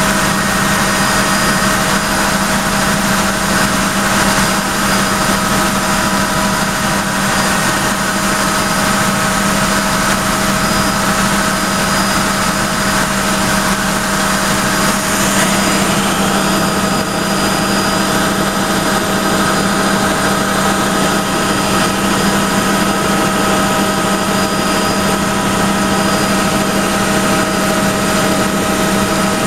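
Helicopter in flight: a loud, steady drone of engine and rotor noise with several steady whining tones.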